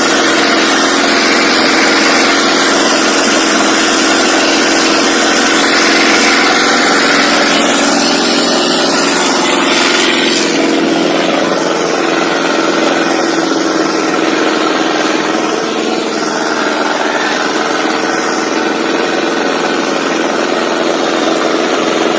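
Ace 6565 tractor's diesel engine running steadily and loudly while pulling a load of three harrows. A bright hiss over the engine drops away about halfway through.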